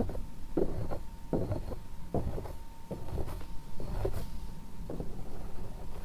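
Soft rubbing strokes close to the microphone, repeating in an even rhythm, typical of ASMR hair brushing or massage. A faint steady hum runs underneath.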